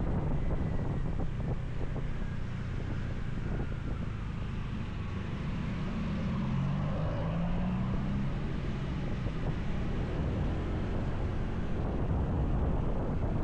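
Motorcycle riding along, with wind rushing over the microphone and the engine running underneath; the engine note climbs for a few seconds partway through.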